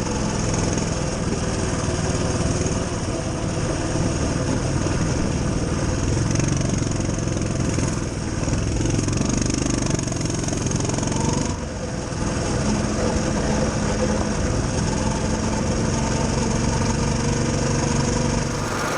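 Coleman CT200U-EXR mini bike's small single-cylinder four-stroke engine running steadily, its note dropping briefly about eleven seconds in and then settling at a slightly different speed.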